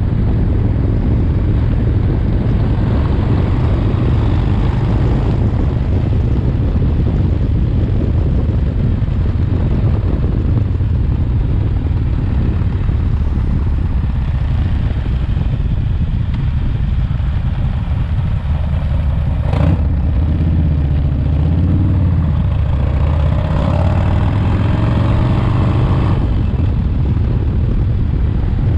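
S&S 107ci air-cooled V-twin in a 1985 Harley-Davidson FXRT running under way during engine break-in, mixed with wind rush on the microphone. A sharp click comes a little past the middle, and for the next several seconds the engine note rises and falls.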